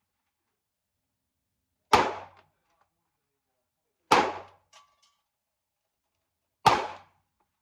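Three pistol shots from a 9mm Taurus G3, slow single fire about two and a half seconds apart. Each is a sharp crack that dies away within half a second.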